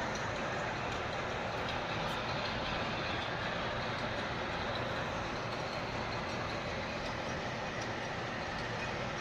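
Steady rushing background noise with no distinct clicks or knocks.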